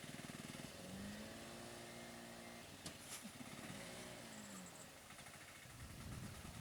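A small vehicle engine running faintly, its pitch rising and falling twice as it is revved.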